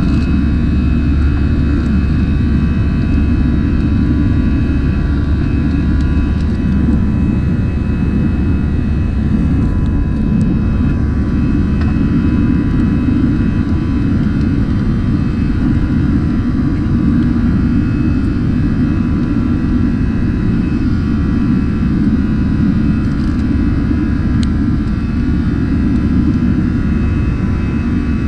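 Airbus A321-200 jet airliner heard inside the passenger cabin in flight after takeoff: a steady low rumble of engines and rushing air, with a few faint steady whines above it.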